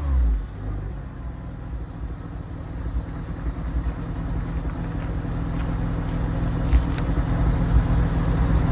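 Porsche 996's flat-six engine settling from a rev into a steady idle through an aftermarket variable-valve muffler. The low idle grows slightly louder toward the end.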